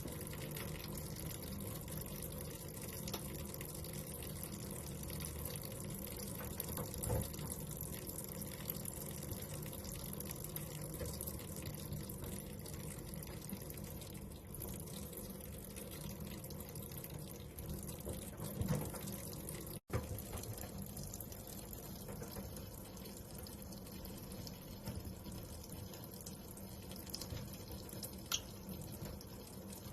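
Steady running water, like a tap left running, with a few brief sharper sounds over it.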